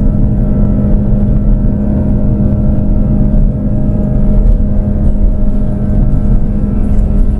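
Airbus A330-300 jet engines heard from inside the cabin: a loud steady drone with a constant low hum.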